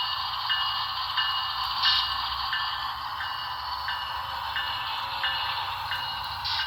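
HO scale model train running on the layout track, a steady whir of the locomotive motor and rolling wheels with a regular repeating pattern about three times every two seconds.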